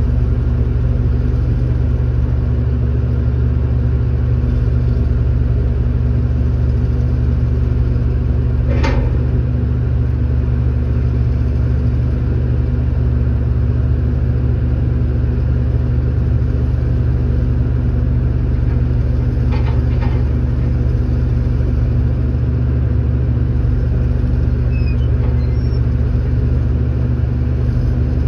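A vehicle engine running steadily with an even low rumble that does not change in pitch. A sharp click comes about nine seconds in, and a quick double click about twenty seconds in.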